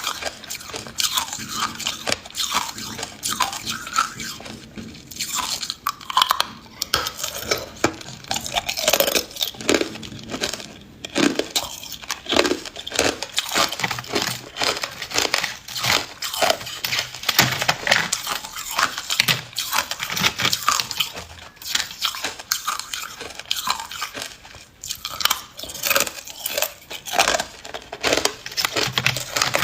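Ice being bitten and chewed close to the microphone: dense, irregular crunching and crackling throughout, without a steady rhythm.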